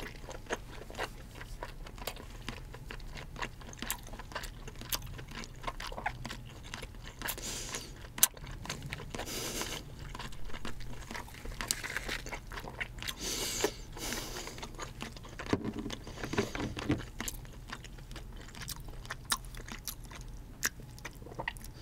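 Close-miked chewing of king crab leg meat: many small wet mouth clicks and smacks, with a few softer swishing sounds in between.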